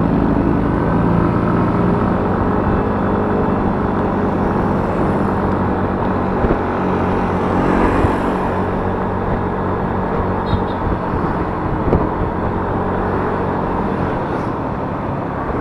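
Yamaha Mio S 125 scooter's single-cylinder engine running steadily under way.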